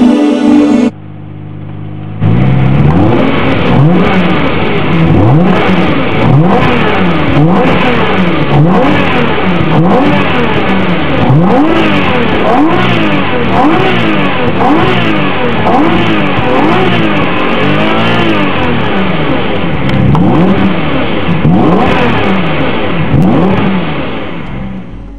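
Lamborghini Reventón Roadster's 6.5-litre V12 revved repeatedly in neutral while standing, quick throttle blips rising and falling about once a second.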